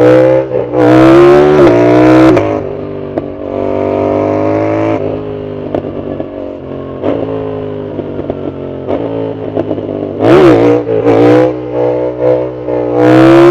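Yamaha MT-07's parallel-twin engine on a full aftermarket exhaust, loud, accelerating hard through the gears with the pitch climbing and dropping at each shift. In the middle it rolls off the throttle with a run of short pops on the overrun, then pulls hard again twice.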